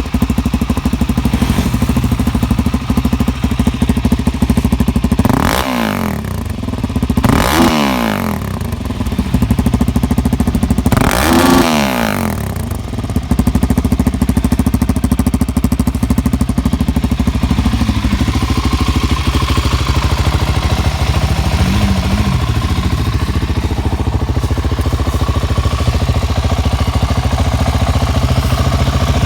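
Suzuki DR-Z400's single-cylinder four-stroke engine through a Barker's full stainless-steel exhaust, idling steadily. Three times in the first half the engine is revved up and back down, and then it settles back to idle with a couple of light blips of the throttle.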